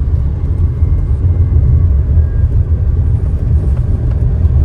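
Low, steady rumble of a Tata Harrier on the move, heard from inside the cabin: road and engine noise.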